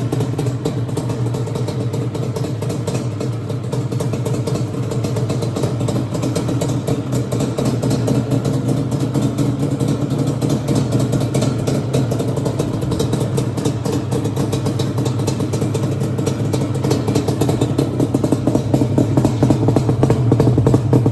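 Off-road vehicle engine fitted with an aftermarket Toomey exhaust, idling steadily with an even, rapid exhaust pulse. It gets a little louder near the end.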